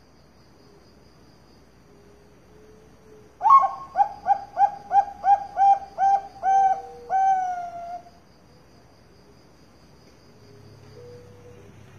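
Zebra dove (Bangkok perkutut) singing its cooing song: a quick run of about ten short, clipped coos, ending on a longer note that falls away.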